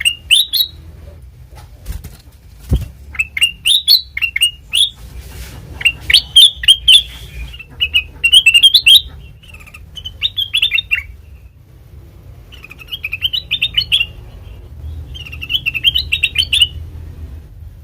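Kutilang emas (a bulbul) singing in short phrases of quick, chirpy notes, with brief pauses between phrases.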